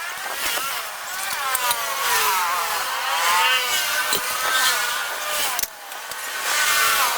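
Honda Vario Techno 110 scooter's single-cylinder engine running and being revved, its pitch rising and falling again and again, with a short drop-off just before the end.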